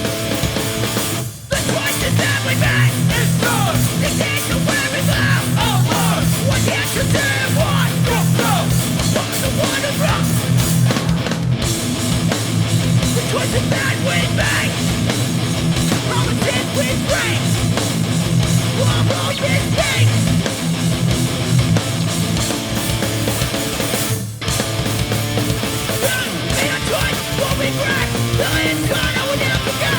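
A hardcore punk band playing live and loud: distorted electric guitars, bass and drums.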